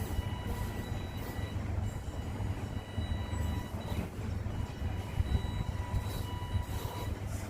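Electric RC rock crawler driving and climbing: a low rumble from the drivetrain and tyres, with a faint steady motor and gear whine over it.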